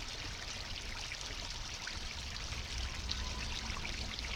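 Flooded creek water rushing and splashing steadily, with a low rumble underneath.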